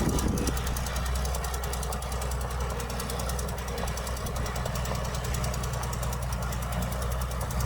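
Diesel engine of heavy earthmoving machinery running steadily, with a low hum and a fast, even clatter; about half a second in the engine note eases and settles.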